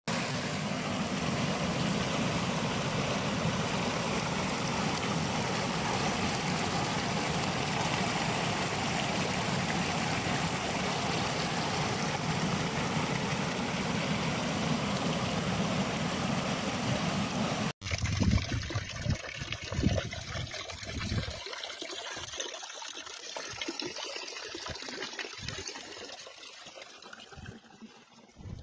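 Stream water rushing steadily. About two-thirds of the way through it cuts off abruptly to a quieter, uneven stretch with intermittent low rumbles.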